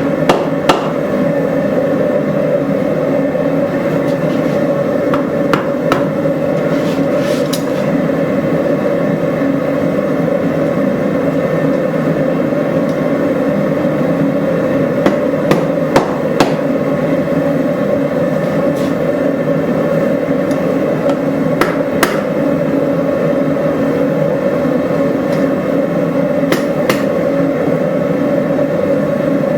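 Scattered hammer blows on a hot railroad spike on the anvil, a few seconds apart with some in quick pairs, as the blade is tapped straight. Under them runs a steady, loud, low rushing noise.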